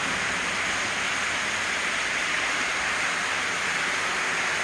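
Steady, even hiss with nothing else heard.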